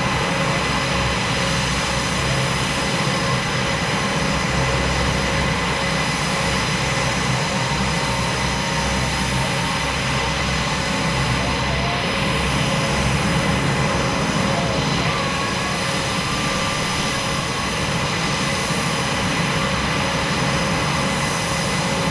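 Jet engines running steadily: a loud, constant noise with a few thin, steady whining tones over it, neither rising nor falling.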